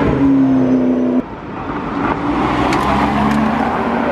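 Supercar engines on a city street: a McLaren P1 passing with a steady engine note that cuts off abruptly about a second in, then a Lamborghini's engine note rising as it accelerates away.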